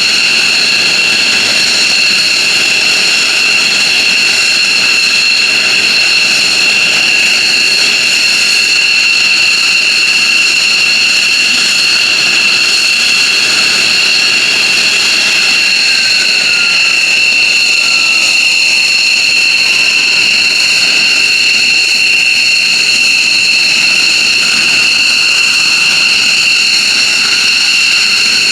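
F-15J Eagle's F100 turbofan jet engines running steadily, a loud high-pitched whine held at a constant pitch over a rushing roar.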